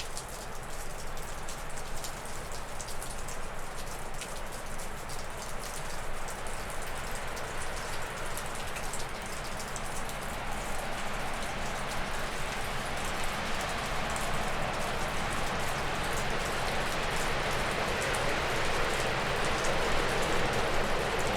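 Wind gusting through spruce and birch trees: a rushing noise that builds steadily from about halfway through into a stronger gust. Meltwater drips off a roof in quick, scattered ticks throughout.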